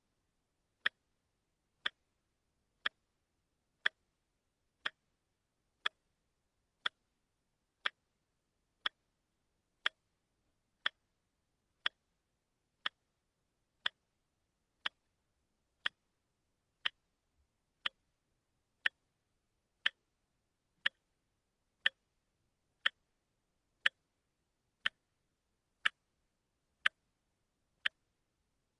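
Watch ticking steadily, one sharp tick a second, the pace of a quartz movement.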